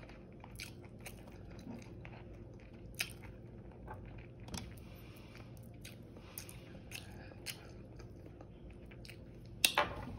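Close-up chewing and biting of crispy air-fried chicken wings: scattered small crunches and mouth clicks, with a louder sharp crunch near the end.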